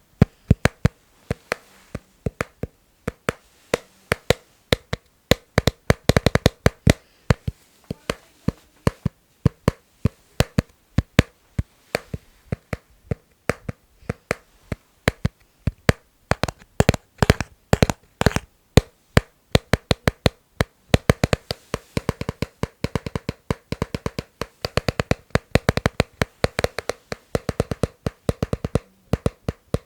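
Rhythmic ASMR tapping on a hard object: sharp taps, some spaced out and some in quick runs, several with a short faint ring.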